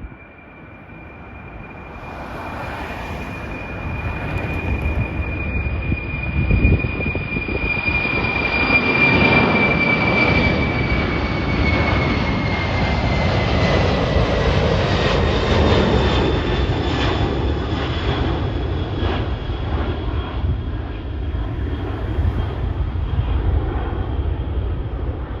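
Airliner passing close by: its engine noise builds over several seconds and stays loud. A high engine whine slides down in pitch as it goes past.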